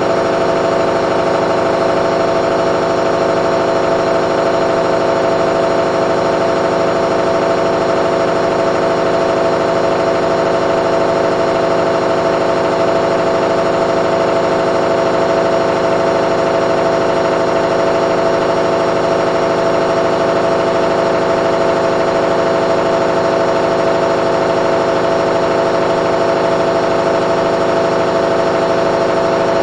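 Candy washing machine on its spin cycle, drum spinning at a steady high speed with an even motor whine and hum; the programme's spin was set to 800 rpm.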